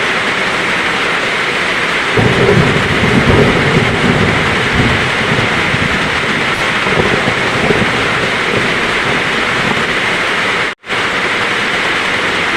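Heavy rain falling steadily, with a low roll of thunder rumbling from about two seconds in for a few seconds. Near the end the sound cuts out for a split second.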